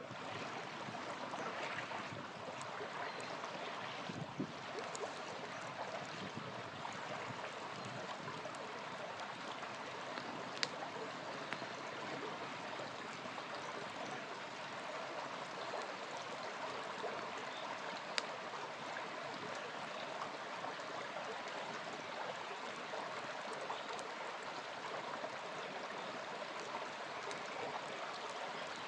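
Small river flowing steadily, with a few sharp pops from a crackling campfire: the clearest about a third of the way in and again about two thirds in.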